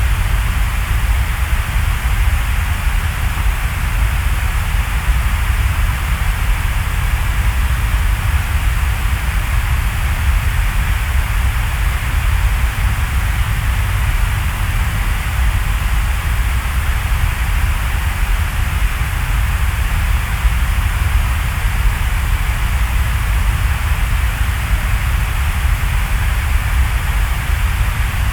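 Steady rain falling: an even, unbroken hiss with a deep rumble underneath.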